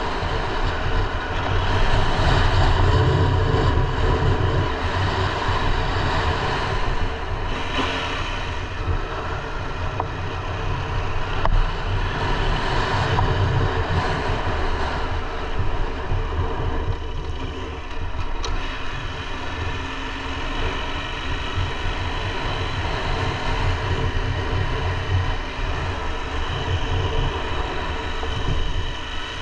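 KTM 890 Adventure R's parallel-twin engine running under way, with wind rushing over the camera microphone.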